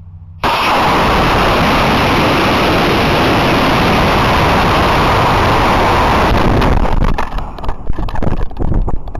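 Estes E12-4 model rocket motor launch heard from a recorder on the rocket: a loud, steady roaring rush starts suddenly about half a second in. After about seven seconds it breaks up into uneven, gusty wind buffeting on the microphone.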